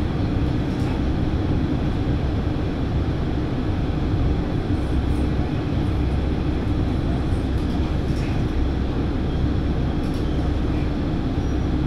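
Diesel railcar running along the line, heard from inside the car: a steady engine and wheel rumble with a low hum.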